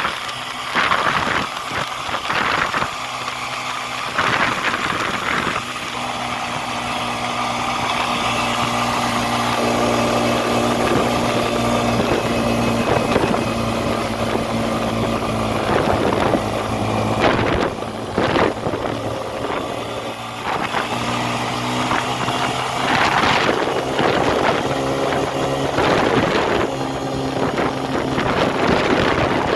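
Motor vehicle engine running with a steady drone, with a few brief louder noisy swells in the second half.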